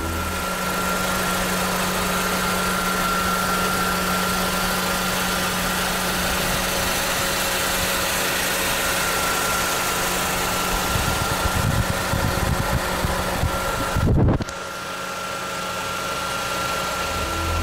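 Mercedes SLK 200 Kompressor's supercharged four-cylinder engine idling steadily, heard with the bonnet open. About fourteen seconds in there is a brief low thump, after which it runs a little quieter.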